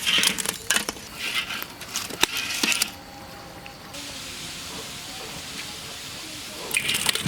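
Spring rolls deep-frying in hot oil: crackling and sizzling for the first few seconds, settling into a steadier, quieter hiss, then crackling again near the end.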